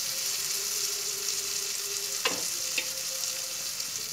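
Stuffed okra sizzling as it fries in oil in a non-stick pan, stirred with a wooden spatula. Two short knocks come about halfway through.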